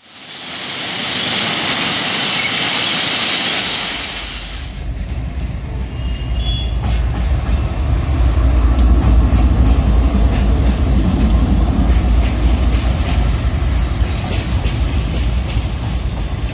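Express passenger train passing at speed. A rushing noise rises in the first second. About four seconds in, a deep low rumble comes in and holds, with rapid wheel clicks over the rail joints.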